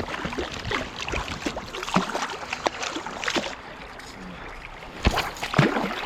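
Irregular splashing and knocks in shallow river water, loudest about two seconds in and again near the end.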